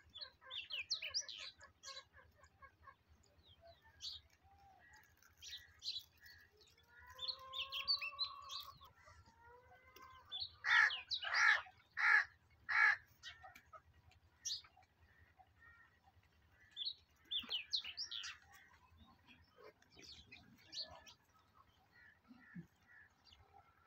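Birds calling outdoors: scattered short high chirps, and about ten seconds in a run of four loud harsh calls in quick succession.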